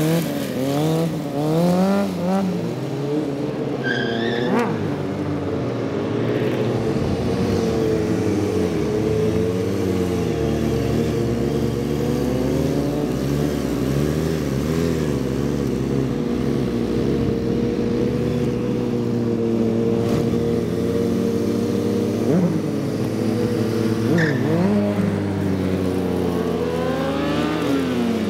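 Several motorcycle engines revving up and down and passing by, their pitches overlapping and constantly rising and falling, as during wheelie and stunt riding.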